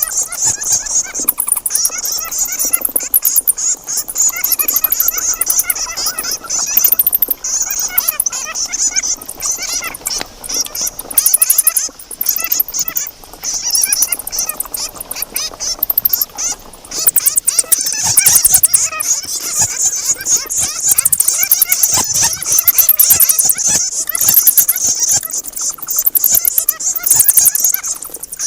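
Bats calling: fast, very high-pitched chittering squeaks and clicks, dense and unbroken, swelling and fading in loudness.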